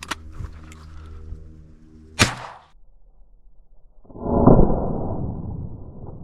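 A single shotgun shot about two seconds in, a sharp crack that rings briefly, from a Zoli shotgun firing 24 g birdshot loads. A few small clicks come before it, and from about four seconds in a loud, muffled low rumble swells and slowly fades.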